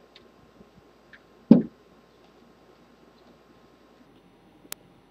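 Handling of the rifle's forend and a Torx driver: a few faint clicks, one dull knock about a second and a half in, and a sharp click near the end.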